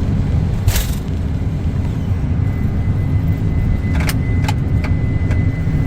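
Boeing 747 jet engines running with a steady low rumble, with a brief swish about a second in and a few sharp clicks and a faint thin whistle joining near the end.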